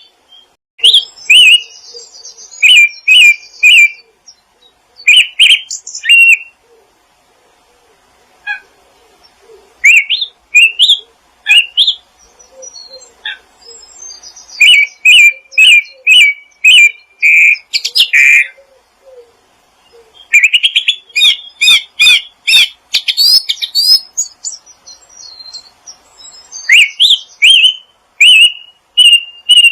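Small wild songbirds chirping and singing in clusters of short, sharp, high notes, with a fast run of rising notes about two-thirds of the way through and brief lulls between clusters.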